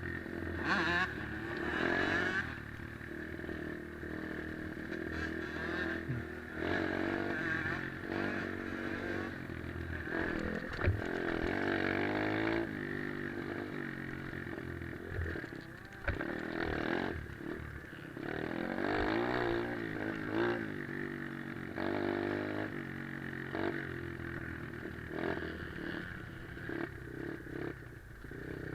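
Pit bike's small single-cylinder engine heard from on board while riding, its pitch rising and falling again and again as the rider works the throttle and gears. A few sharp knocks come through.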